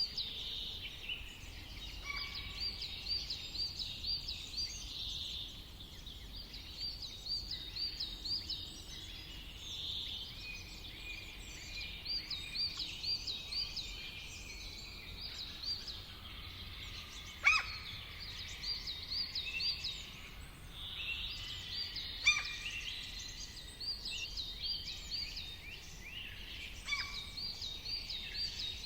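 Songbirds singing, with runs of quickly repeated high chirping notes. Three sharper, louder calls come through about midway, about two-thirds of the way through and near the end. A low, steady rumble runs underneath.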